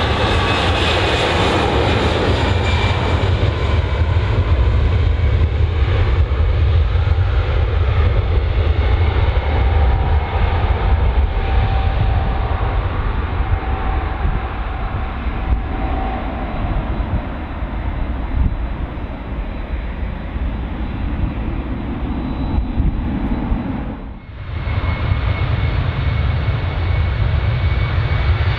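Jet airliner engines running loud with a deep rumble, their whine falling in pitch over the first few seconds. The sound dips out abruptly about 24 seconds in and returns with a steady high whine.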